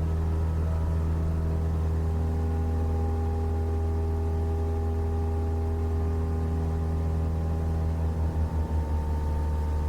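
Cessna 172's piston engine and propeller droning steadily, heard inside the cabin, with a brief wavering beat in loudness about eight seconds in.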